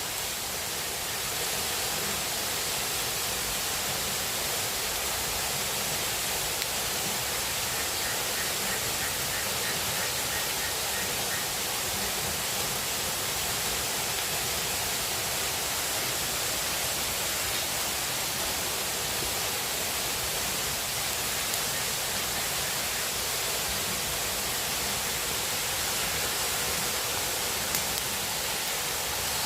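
Steady, even rushing of water. A faint run of rapid pulsed calls comes about eight seconds in.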